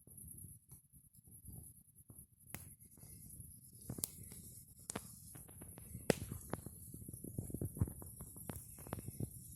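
Campfire crackling: scattered sharp pops and snaps over a low rumbling noise, the pops coming more often in the second half.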